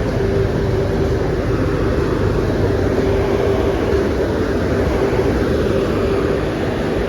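Istobal tunnel car wash's air dryer blowers running, a steady loud rush of air with a constant hum underneath.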